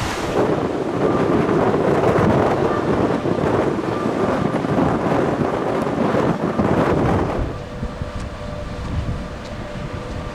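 Wind buffeting the microphone on a cruise ship's deck, a rough rushing noise that eases about three-quarters of the way through, leaving a faint steady hum.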